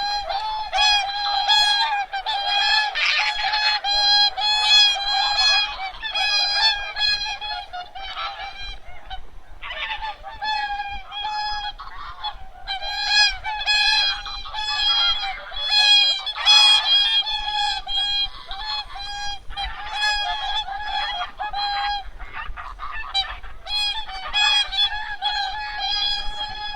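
A large flock of wild geese and swans honking, many calls overlapping without a break except for a short lull about nine seconds in.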